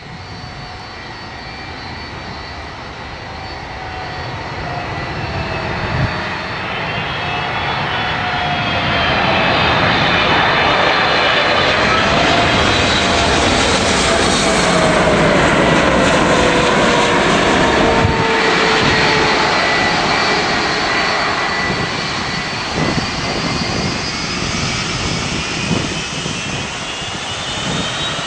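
Boeing 777 twin jet engines passing close by, the noise building over several seconds and then staying loud, with whining tones that slide down in pitch as the aircraft goes past.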